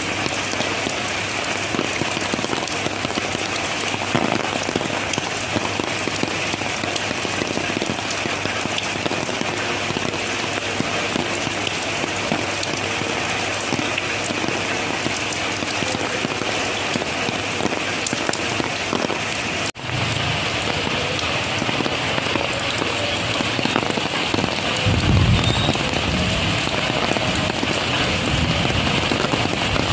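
Rain falling steadily, a dense hiss of drops on surfaces. The sound cuts out for an instant about two-thirds of the way through, and a low rumble swells in under the rain near the end.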